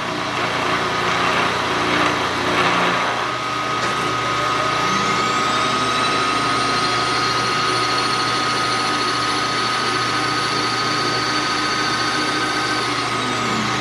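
Milling machine running, with the cutter taking a pass across a part held in the vise. A high whine comes in about five seconds in and drops away near the end.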